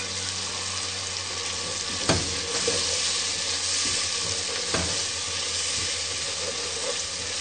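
Onion, tomato and spice masala sizzling in oil in a pot while it is stirred with a wooden spoon: the masala being fried down (bhuna). Two light knocks come about two and five seconds in.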